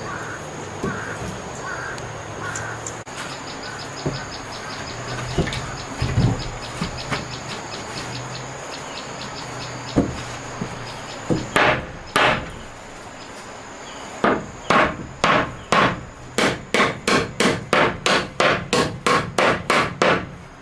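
A hammer striking wood. A few scattered blows come first, then a steady run of about two to three blows a second over the last six seconds that speeds up toward the end.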